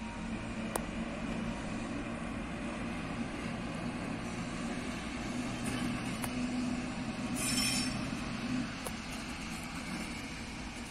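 Train moving on the track: a steady low hum, a few sharp clicks, and a brief high-pitched wheel squeal about seven and a half seconds in.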